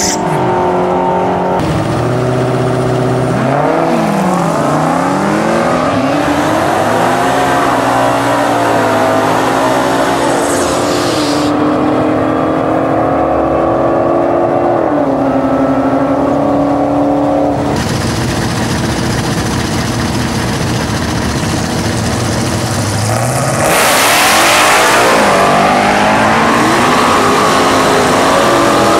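Drag race cars' engines revving and accelerating hard, the pitch climbing and dropping again and again as they pull through the gears. The sound changes abruptly several times, as between separate passes.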